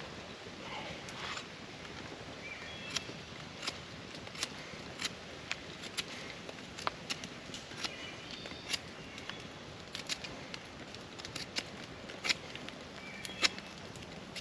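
Campfire crackling, with sharp irregular pops about once or twice a second.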